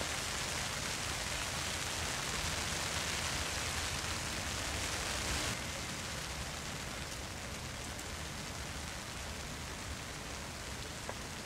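Steady rain hissing on the pond water and the rubber liner. It drops a little in level about halfway through, and a few faint clicks sound near the end.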